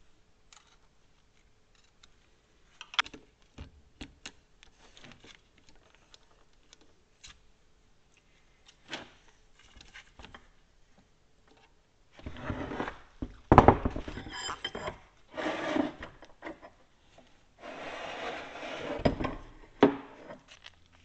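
Hand work on a cast-iron Dake arbor press being reassembled: bolts are set into the bearing cap and tightened with a ratchet and socket. Scattered light metal clicks and taps come first, then a louder stretch of ratcheting and scraping metal, with two sharp knocks, the loudest about halfway through.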